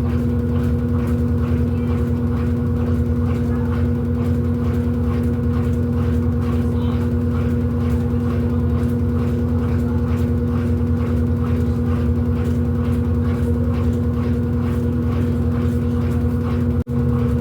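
Electrolux LED14 washing machine running, a steady loud motor hum with a constant tone over a faint, even pulsing. The sound cuts out for an instant near the end.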